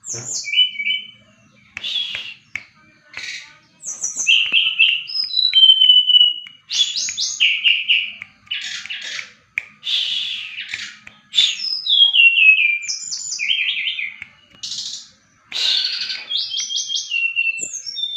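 A kept SRDC songbird singing continuously in full 'gacor' voice: a fast, varied run of high whistles, chirps and rapid notes stepping down in pitch, with short pauses between phrases.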